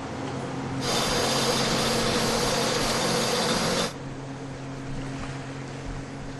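Boat engine running steadily, with a loud rushing hiss that starts about a second in and cuts off suddenly some three seconds later.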